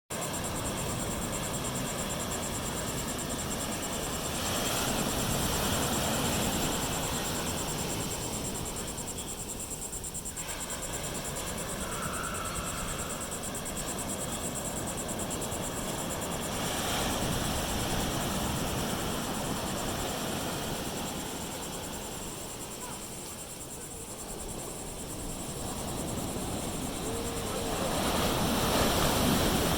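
Ocean surf from a post-hurricane swell, waves breaking and washing in, swelling louder three times, with strong wind rumbling on the microphone.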